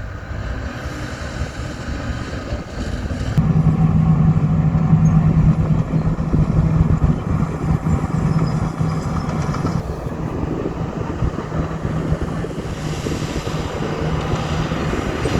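Diesel engine of heavy earthmoving machinery running steadily, turning louder with a steady low drone from about three seconds in and easing a little after about ten seconds.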